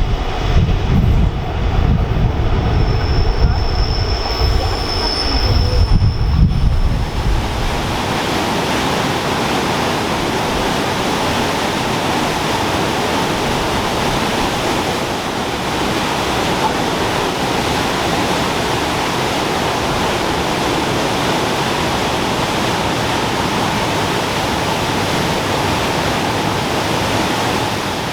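A Rhaetian Railway train rumbling past on the Bernina line, with a thin high wheel squeal a few seconds in. It cuts off abruptly after about seven seconds, and steady rushing water, a waterfall or mountain stream, takes over.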